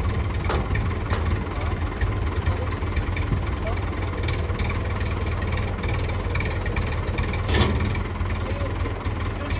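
Massey Ferguson 165 tractor engine running steadily at a low, even speed, with a few brief knocks over it.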